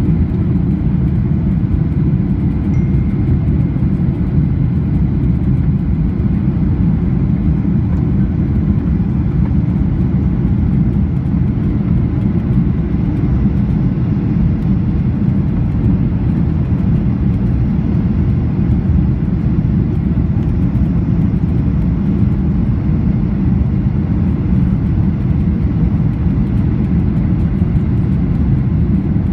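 Steady, even low rumble of cabin noise inside a Boeing 737-800 airliner: its CFM56-7B engines and the airflow around the fuselage, with no change in level.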